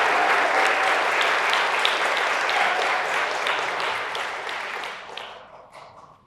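Audience applauding, with many sharp claps, steady at first and then dying away over the last second or so.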